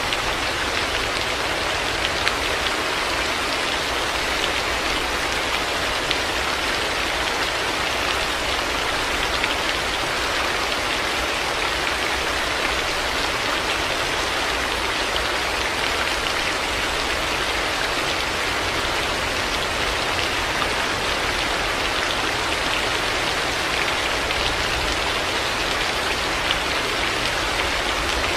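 Heavy rain falling steadily, a dense even hiss of many drops hitting hard surfaces, with no thunder.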